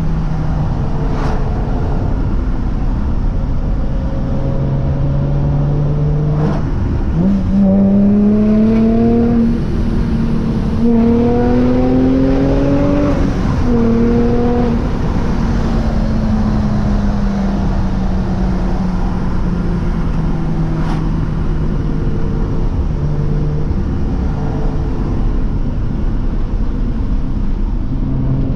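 Supercharged Infiniti G35's V6 engine, breathing through headers, test pipes and an aftermarket exhaust, cruising steadily. About seven seconds in, its revs climb hard, break at a gear change, climb again, then fall away slowly as the car slows.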